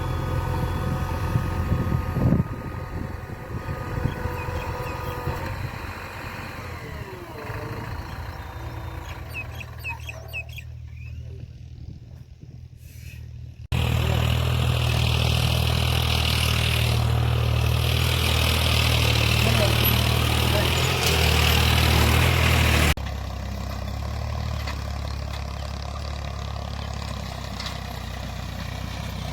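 Heavy diesel engines running, with the sound changing suddenly twice: it jumps louder about 14 seconds in and drops back about 23 seconds in.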